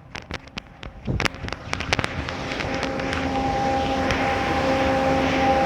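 Self-serve car wash high-pressure spray and its pump: a few sharp clicks, then from about two seconds in a rising hiss of spray with a steady pump hum under it.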